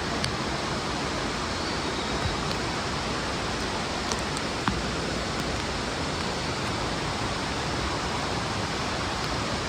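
Mountain stream rushing over boulders in a rocky gorge: a steady, even rush of water, with a couple of sharp clicks about four to five seconds in.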